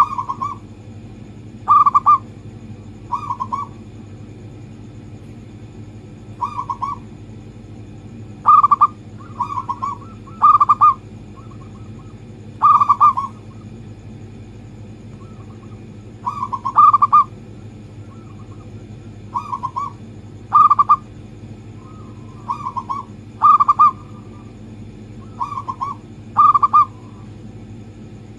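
Zebra dove (perkutut) cooing: short coo phrases of one to three notes, repeated every couple of seconds, over a faint steady hum.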